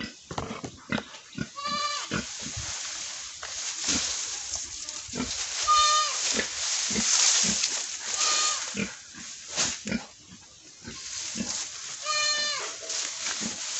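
Pigs grunting over and over, with a short high-pitched squeal about every three seconds that drops in pitch at its end.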